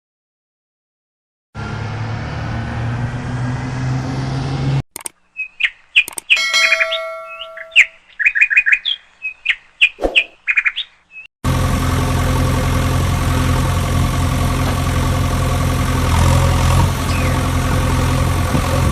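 Engine drone, running steadily, cut off abruptly and replaced for several seconds by rapid short high chirps, then the engine drone starts again and runs steadily.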